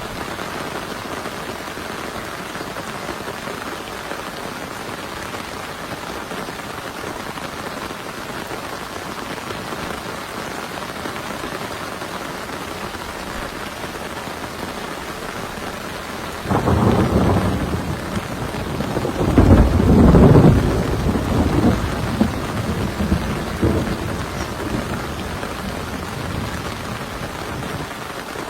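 Heavy steady rain, with a thunderclap about two-thirds of the way through that rolls and rumbles for several seconds before dying away.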